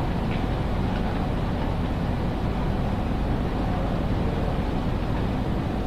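Steady low rumble of a large railway station hall's ambience, an even wash of noise with no distinct events.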